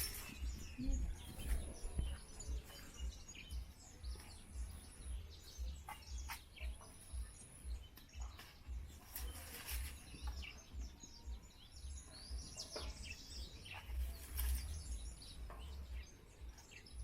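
Birds chirping over a low, uneven rumble, with a few scattered clicks. A thin high tone comes and goes in short stretches.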